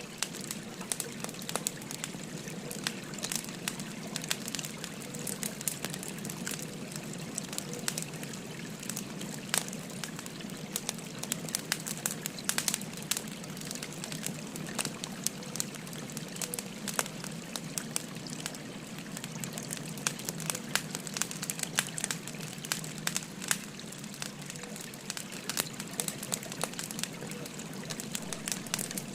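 Wood fire crackling, with irregular sharp pops, over the steady rush of a babbling river.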